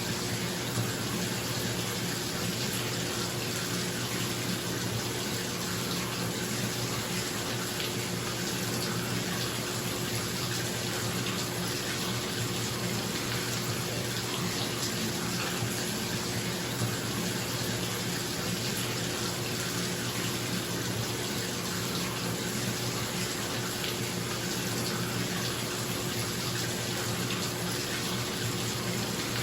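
Water running steadily from a tap into a filling bathtub, an even splashing hiss, with the steady hum of a bathroom exhaust fan underneath.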